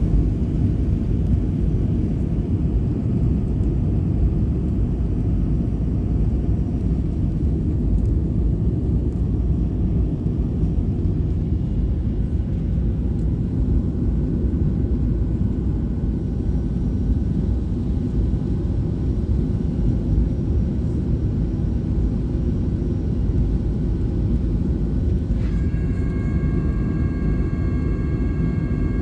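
Fixed-wing aircraft with a steady, deep rumble. About 25 seconds in, a set of steady high whining tones sets in suddenly and holds.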